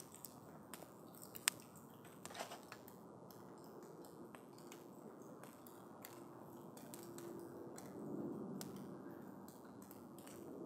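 Wood campfire burning: scattered sharp crackles and pops from the burning wood over a low, steady rustle of flame. The pops come thicker in the first few seconds, and the low rustle grows a little louder near the end.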